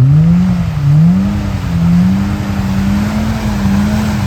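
Side-by-side UTV engine revving hard under load in thick mud: its pitch climbs steeply at the start, then is held high, wavering up and down, over a steady rush of noise.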